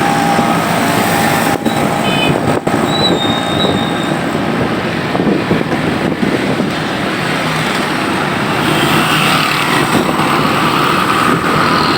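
Steady loud noise of strong wind mixed with road traffic, with a brief high thin tone about three seconds in.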